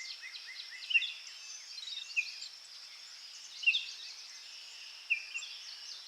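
Birds chirping in short, repeated high calls over a steady high-pitched insect-like hiss, with louder chirps about a second in, around two seconds, nearly four seconds and about five seconds in.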